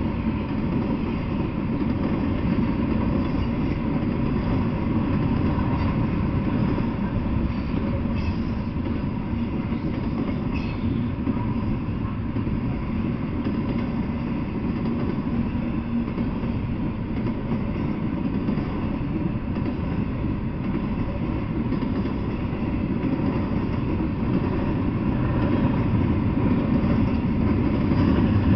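Double-stack intermodal freight train cars rolling past, a steady rumble of steel wheels on the rails.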